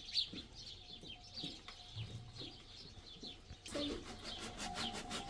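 Small birds chirping. Near the end a fast, even scraping starts, about five strokes a second.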